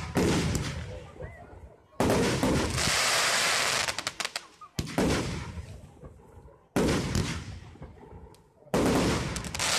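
Aerial firework shells bursting overhead, five loud bangs about two seconds apart, each followed by a fading echo, with a spatter of crackling after some of the bursts.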